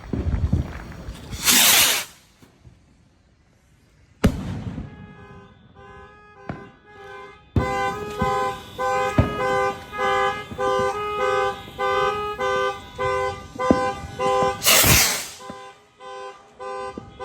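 Fireworks going off: a loud hissing rush, then a sharp bang about four seconds in, with more bangs and a second hissing rush near the end. About five seconds in a car alarm starts and keeps sounding, cycling through its pattern of tones, set off by the fireworks.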